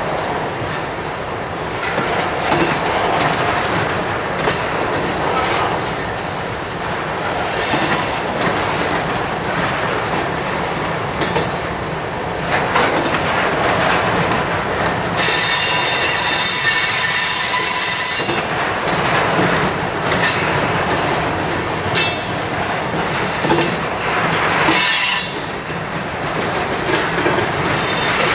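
CSX covered hopper grain cars rolling past: a steady rumble and rattle of steel wheels over the rails, with a high metallic wheel squeal for a few seconds about halfway through.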